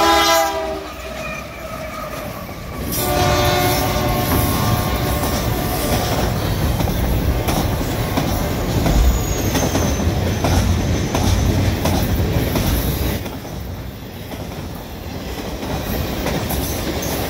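GE AC4400CW diesel locomotives of a freight train passing close by: the horn chord cuts off about half a second in and sounds again for about three seconds, over the deep rumble of the diesels. After that come the steady rumble and clickety-clack of the freight cars' wheels rolling past.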